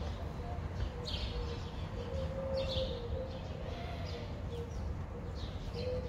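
Small birds chirping: short, high chirps about once a second over a steady low outdoor rumble, with a faint steady hum underneath.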